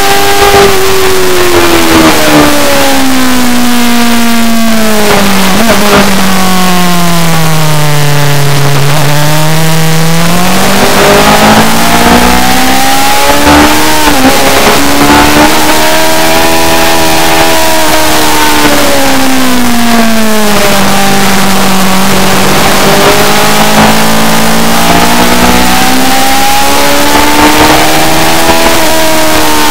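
A racing motorcycle engine running hard and without a break, very loud. Its pitch sinks slowly for several seconds and climbs again, twice over, with a short dip in between, as the bike slows and speeds up around the track.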